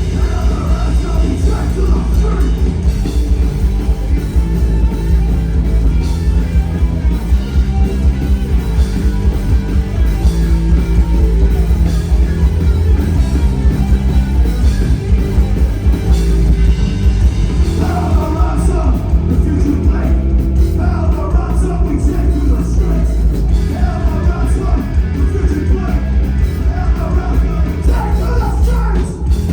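Live rock band playing loud, with a heavy low end. A singer's voice is heard at the start and again from about two-thirds of the way through.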